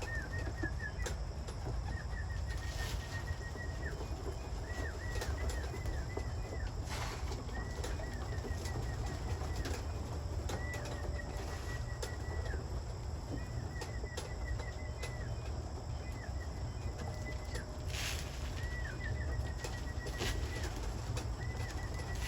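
Homing pigeons flapping their wings as they land and trap into the loft, over a steady low wind rumble, with a few sharp claps. A short, high chirping phrase from another bird repeats every second or two.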